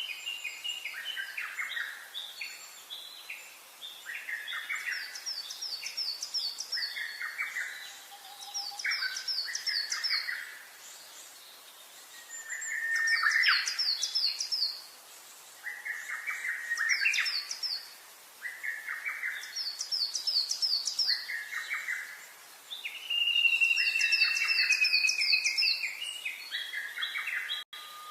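Several birds singing, with repeated phrases of quick chirps and a recurring run of rapid high falling notes every few seconds, plus one longer whistled note about two-thirds of the way through.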